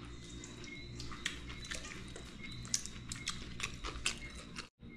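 Eating with the hands: soft chewing and small wet clicks from a mouthful of rice and dhal, scattered and irregular over a faint steady room hum. The sound cuts out completely for a moment near the end.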